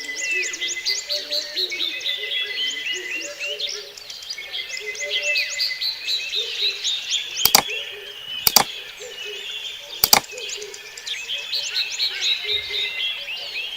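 A dense chorus of birds chirping and trilling in falling series, over a lower layer of short repeated animal calls. Three sharp clicks come a little past the middle.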